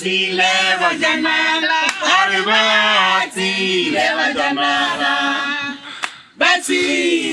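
A group of voices singing a welcome song together, sustained sung phrases in harmony without instruments, with a short break about six seconds in.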